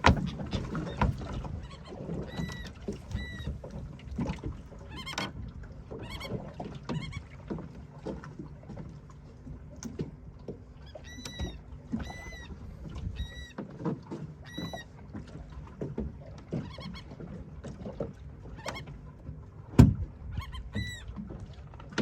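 A small boat rocking on the water, with low water noise and scattered knocks against the hull. A bird gives short, clear calls with an arched pitch, singly or in pairs. A single loud knock comes near the end.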